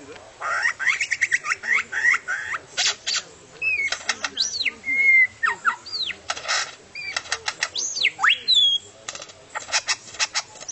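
A songbird singing a varied song: fast, chattering runs of notes mixed with single clear whistles that sweep sharply up and down, with short pauses in between.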